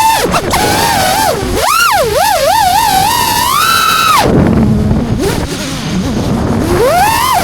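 FPV freestyle quadcopter motors and props whining, the pitch swooping up and down quickly with the throttle. About halfway through the whine drops away for a couple of seconds, leaving a low rushing rumble, then climbs again near the end.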